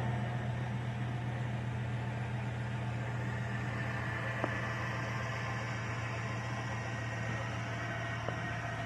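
GM 5.3-litre V8 engine idling steadily, with a faint single tick about four and a half seconds in and another near the end.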